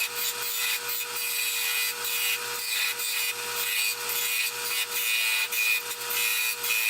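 Wood lathe running with a steady motor hum while a turning tool cuts the spinning cedar candlestick blank, the cutting hiss swelling and fading in repeated passes.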